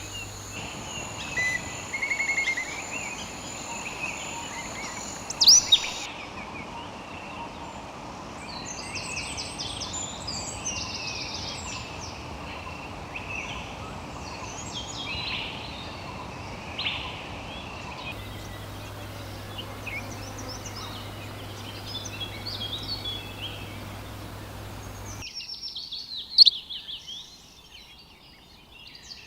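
Birds chirping and singing, short high calls and trills over a steady outdoor background hiss. The background changes abruptly several times, and the sharpest, loudest calls come about five seconds in and near the end.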